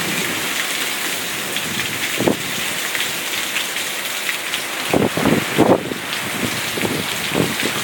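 Heavy thunderstorm rain pouring steadily, with a few brief louder bumps about two seconds in and around five seconds in.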